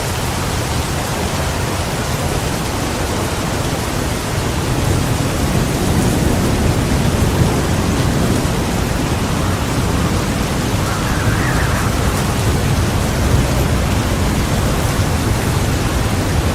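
Heavy rain pouring steadily, with a low rumble of thunder swelling about four seconds in.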